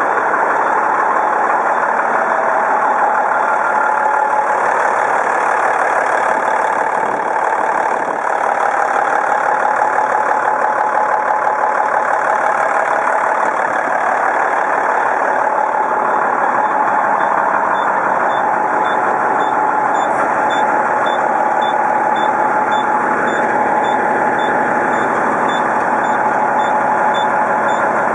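Heavy truck diesel engine running steadily. About two-thirds of the way through, a backup alarm starts beeping about twice a second.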